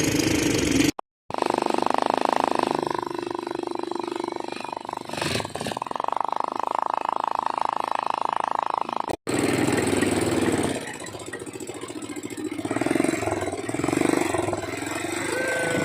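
ATV engine running, in short clips broken by two abrupt cuts, about a second in and about nine seconds in.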